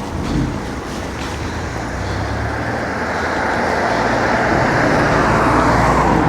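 Road traffic: a motor vehicle's engine hum and tyre noise getting steadily louder as it approaches.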